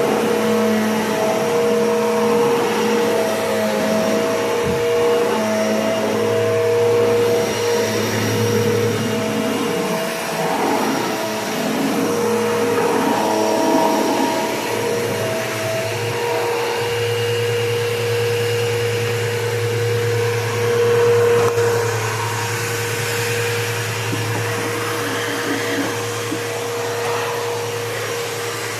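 Bissell PowerForce Bagless Turbo 6596 upright vacuum cleaner running steadily, its motor humming, with small shifts in pitch and airflow as it is pushed around.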